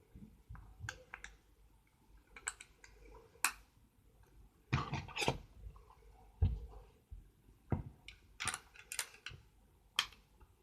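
Lego bricks being handled: irregular small plastic clicks and clatters, with a louder rattling bunch of knocks about halfway through and another near the end.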